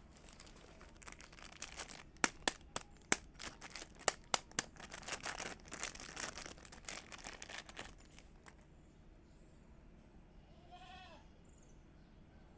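Wood fire crackling, with a run of sharp pops and snaps that dies down about eight seconds in. Near the end comes one short animal call.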